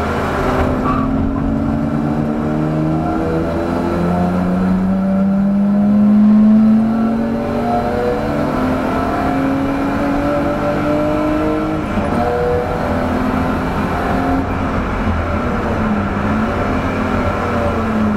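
1989 BMW 325i's 2.5-litre straight-six heard from inside the cabin, driven hard: the revs climb for several seconds at a time and drop back several times as it changes gear and lifts.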